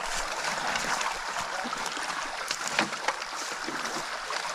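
Shallow stream water splashing and rushing close by, with scattered small knocks and clicks through it.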